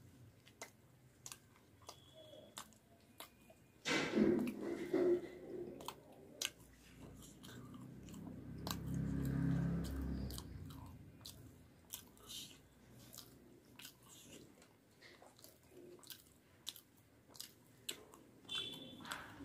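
Close-miked mouth sounds of a person eating puri: wet chewing and lip smacking with many small clicks, a louder spell of chewing about four seconds in, and a low hum lasting about two seconds near the middle.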